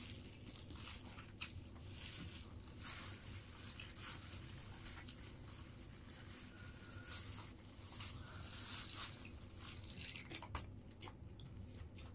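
Close-up eating sounds: a person chewing fried chicken and rice, with many small wet clicks and crackles, plus the crinkle of a plastic food glove.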